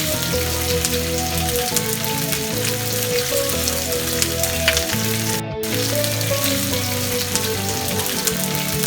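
Chicken sizzling and crackling as it fries in hot oil, with a brief break about five and a half seconds in. Background music plays underneath.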